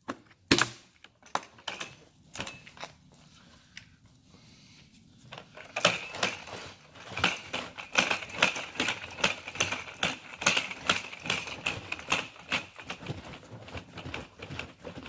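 Lidded 5-gallon plastic bucket of water and truck-wash concentrate being shaken to mix it: a few knocks, then from about six seconds in a fast, steady run of rattling knocks.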